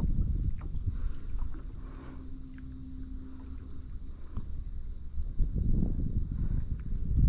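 Insects chirring in a steady high pulsing drone, a few pulses a second, over low rumbling noise that grows louder near the end.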